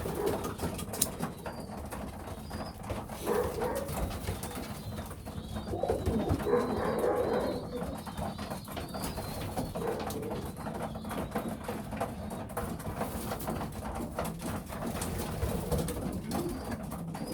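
Young racing pigeons cooing in a loft, several low cooing phrases one after another, over many small clicks and taps from the birds moving about.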